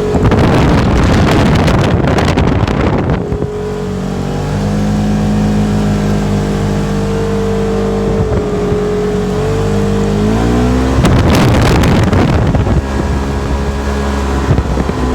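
An engine running steadily, its pitch shifting upward about ten seconds in. Two long surges of rushing noise sound over it, one at the start lasting about three seconds and another about eleven seconds in.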